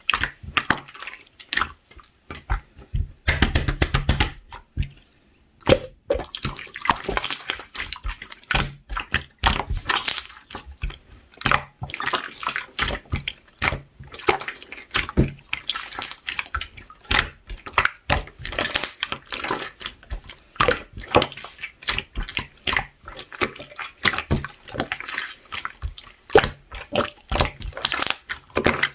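Hands squeezing and stretching a mixed clear slime, giving a continuous stream of wet, sticky clicks and pops, with a dense patch of crackling about three seconds in.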